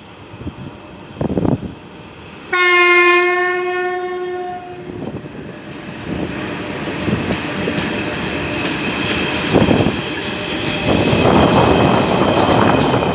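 3ES5K 'Ermak' electric locomotive sounding its horn once, a loud steady tone of about two seconds, after a few knocks. The freight train then moves off, the rumble and clatter of wheels over the rails building up louder toward the end.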